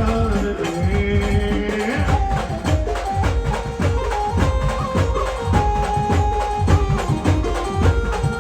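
Brass band playing an instrumental passage: a held melody line stepping from note to note over steady drum beats, with no singing.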